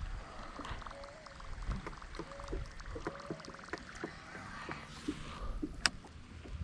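Wind rumbling on the microphone with scattered small clicks and knocks, one sharper click near the end, as tackle is handled on a boat.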